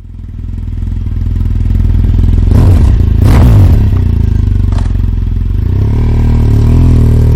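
KTM 790 Adventure motorcycle's parallel-twin engine running steadily as the bike is ridden, fading in at the start. Two short rushes of noise come about a third of the way in.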